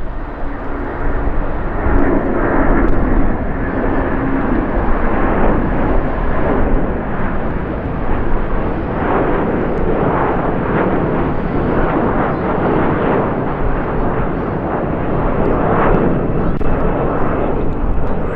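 Airbus A330 airliner's jet engines, a loud, steady noise that holds for the whole stretch, poorly recorded on a microphone the recordist calls very bad.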